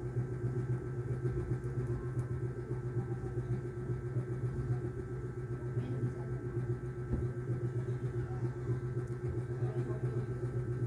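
A steady low hum of a small motor or fan running, with faint ticks now and then.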